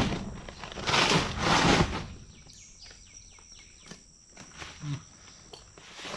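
A sharp knock, then a second or so of loud rustling handling noise, followed by a bird's run of quick, falling chirps.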